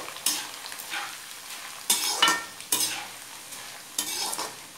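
Corn flakes (maize poha) frying in hot oil in a steel kadhai, with a steady sizzle and the repeated scrape and rustle of a ladle stirring through them.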